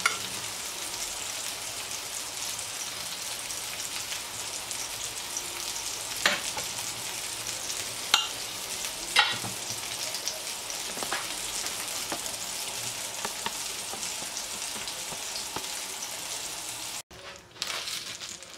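Steady sizzle of food frying on a hot grill pan, with a few sharp clicks. The sound drops out briefly near the end.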